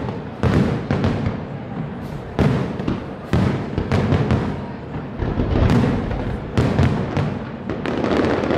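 Fireworks display: aerial shells bursting in an irregular run of about ten loud bangs, each trailed by a low rumbling echo.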